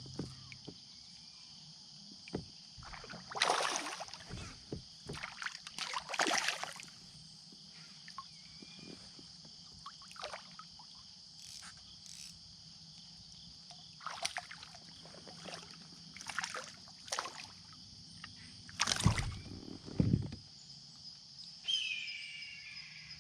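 Kayak paddle and water splashing in irregular strokes, the loudest pair of splashes late on, over a steady high-pitched drone of insects along the creek.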